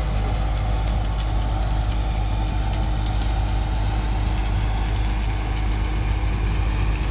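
Heavy diesel engine of piling equipment idling with a steady low drone, with no hammer blows heard.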